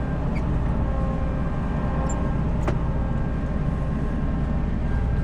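Vehicle engine running with a steady low drone while travelling on the road, with a single sharp click about two and a half seconds in.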